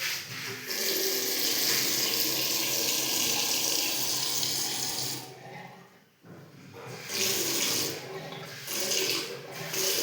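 Water running from a tap, splashing steadily; it stops about six seconds in, then runs again in short spells.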